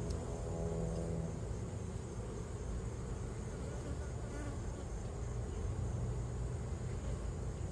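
Honeybees buzzing: a steady hum of many bees flying close by.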